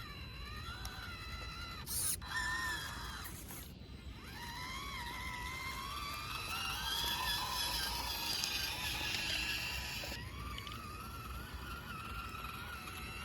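Electric motor and gearbox of a 1/18-scale RC rock crawler whining as it drives over rocks, the pitch rising and falling with the throttle. There is a short sharp noise about two seconds in and a brief break near four seconds; the whine then climbs, dips about ten seconds in, and picks up again.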